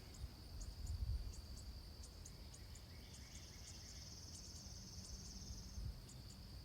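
Faint insects chirping: a steady high-pitched trill, with a second, pulsing trill joining about three seconds in and fading near the end.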